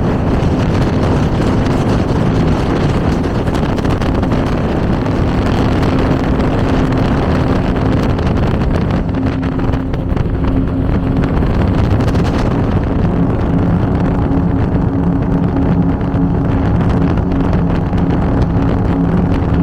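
Twin V8 engines of an Avanti 33 powerboat running steadily under way, a constant drone over the hiss of wind and water. The hiss lessens about two-thirds of the way through.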